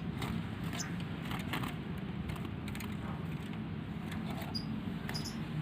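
Faint scattered clicks and small rattles of handling over a steady low background hum.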